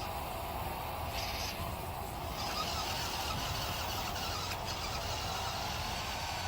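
Radio-controlled 6x6 truck running, its motor and drivetrain giving a steady whine over tyre and road noise.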